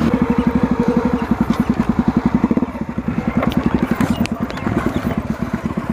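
Motorcycle engine idling close by with an even, low chugging beat of about a dozen pulses a second. It eases off a little about halfway through.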